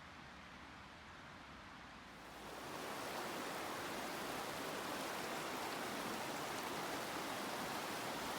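River water rushing steadily, a plain even hiss that swells to a louder level a little over two seconds in.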